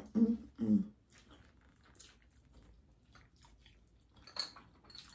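A short two-part voice sound in the first second, then faint close-up eating sounds: chewing and mouth noises with small scattered clicks, and a sharper click about four and a half seconds in.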